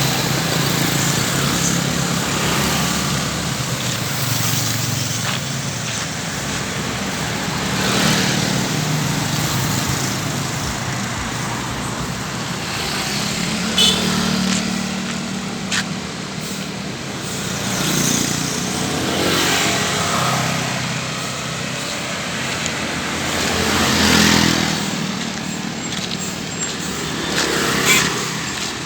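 Road traffic going by: a steady street background with passing vehicles swelling up and fading away several times, about 8, 19 and 24 seconds in.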